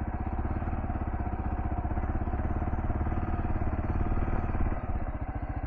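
Kawasaki KLR650's single-cylinder engine running under throttle on a short off-road incline, its firing pulses steady, then the throttle eases off near the end and the engine note drops.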